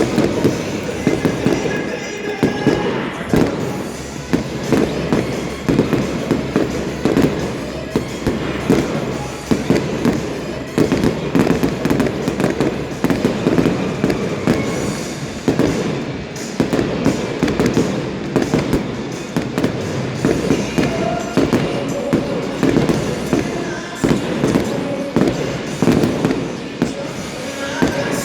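Fireworks display bursting in quick, continuous succession, many bangs a second throughout, with music playing alongside.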